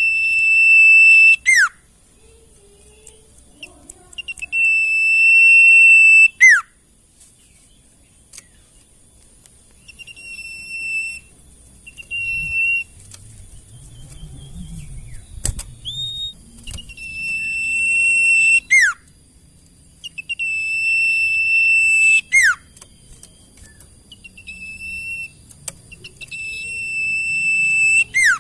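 Sirtu (Sunda bush warbler) singing: long, steady whistled notes, each ending in a quick falling flourish, five times, with shorter whistles in between.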